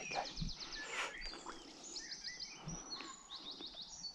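Songbirds singing: several quick runs of fast, high notes, one after another. A few low bumps and a rustle come from handling near the microphone.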